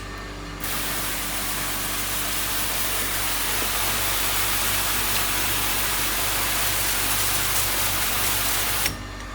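Water running hard at a sink as grinder parts are rinsed, switched on about half a second in and cut off suddenly near the end.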